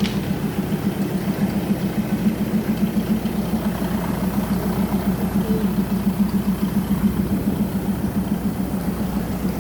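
Large engine idling with a steady, fast, even throb.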